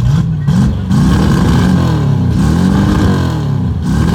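Race car engine being blipped from idle: the revs climb and fall back again and again, in about three big rises of a second or so each.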